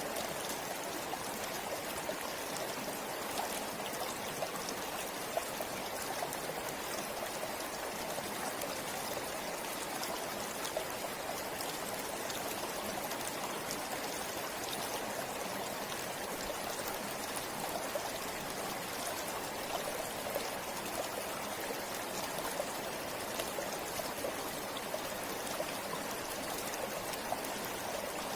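River water flowing steadily: a constant rush of water with many small splashes and trickles through it.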